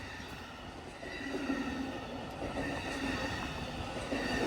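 Amtrak California Zephyr passenger train rolling past, its wheels running on the rails with a steady rumble and faint held squealing tones, growing louder about a second in.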